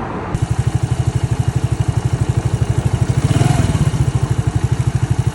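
Single-cylinder four-stroke engine of an Alpha moped idling, with even exhaust pulses at about twelve a second. It rises briefly about three and a half seconds in, then settles back.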